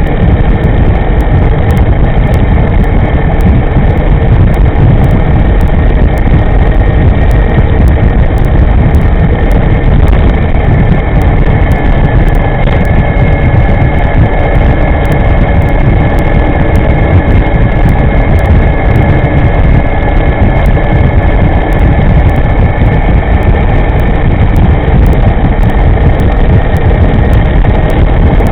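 Steady wind rumble on the microphone of a moving electric scooter, with a faint high whine from its electric motor that shifts slightly in pitch.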